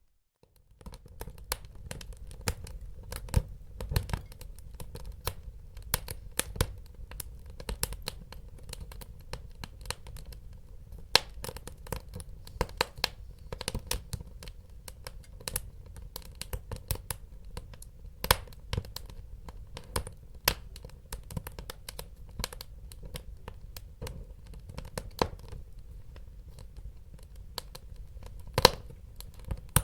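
Wood fire burning in a fireplace: a steady low rumble under frequent, irregular crackles and a few sharp, louder pops. It starts about half a second in, after a brief silence.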